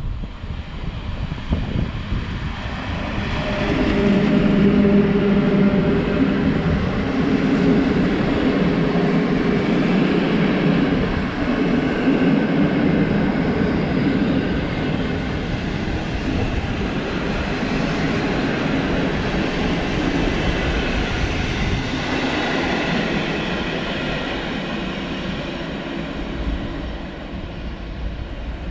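Passenger train hauled by an electric locomotive running through a station: steady running noise of wheels on rails with a hum, growing louder over the first few seconds as the locomotive comes by, staying loud while the coaches roll past, then slowly fading as the train moves away.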